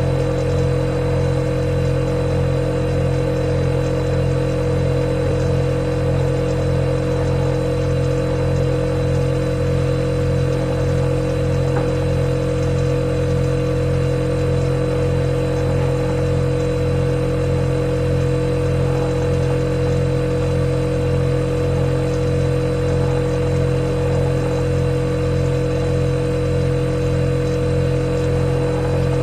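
Refrigerator running: a steady, even hum made of several held low and middle tones that does not change.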